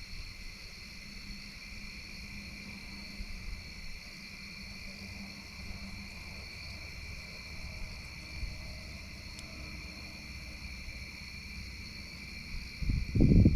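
Steady chorus of insects, crickets or similar, chirring in a constant high drone at two pitches, over a low rumble, with a louder low thump or rumble near the end.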